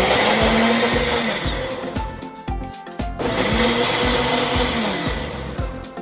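Small electric blender or food chopper run in two short pulses of about two seconds each, the motor whirring up and winding down each time. Soft background music plays underneath.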